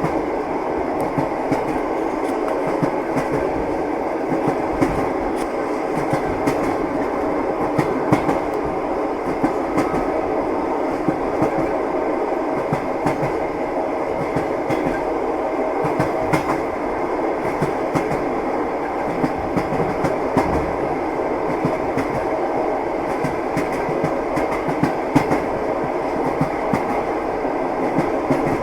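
Moving train running steadily: a continuous rumbling rush with the wheels knocking on the rails in irregular clicks.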